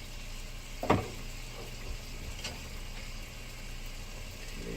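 A steady low mechanical hum from a small motor, with one sharp knock about a second in and a faint click later.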